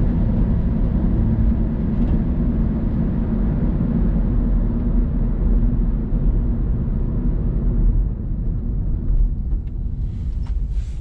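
Steady low road and engine rumble heard inside a car's cabin, easing slightly about eight seconds in, with a few faint clicks near the end.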